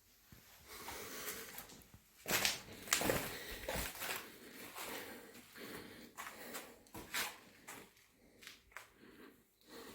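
Bricklaying work: irregular scraping and knocking of trowel, mortar and brick, loudest about two to three seconds in, then lighter knocks and scrapes.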